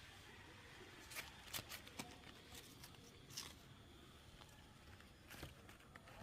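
Near silence, broken by a handful of faint, sharp clicks or ticks.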